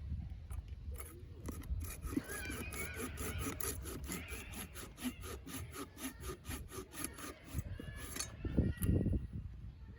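Wood being sawn by hand in quick, even rasping strokes, about five a second. The sawing starts about two seconds in and stops about two seconds before the end.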